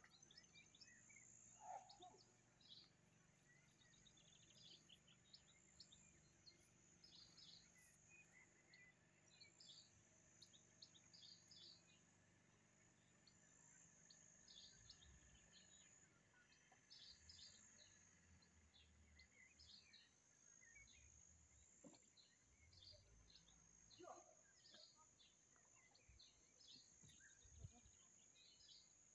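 Faint chirping of small birds, short high calls coming every second or so, over a steady high hiss.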